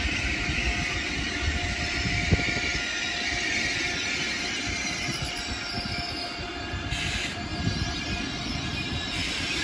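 A train running past on the rails: a steady rumble of wheels with a high hiss over it, and a single sharp click a little over two seconds in.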